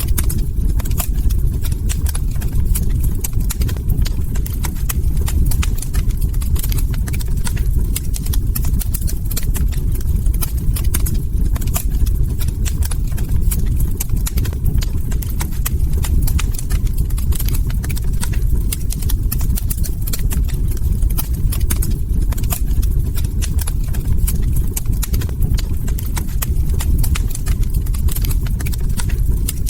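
Log fire crackling in a fireplace: many sharp pops and snaps at irregular spacing over a steady low rumble.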